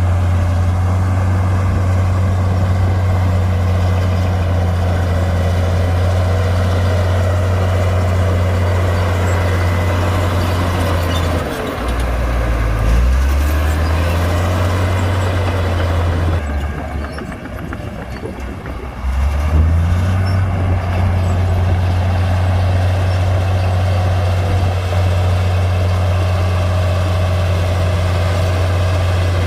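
Komatsu D58P bulldozer's diesel engine running steadily at working revs. Its pitch drops briefly about twelve seconds in. A few seconds later it goes quieter and lower for about three seconds, then comes back up to speed.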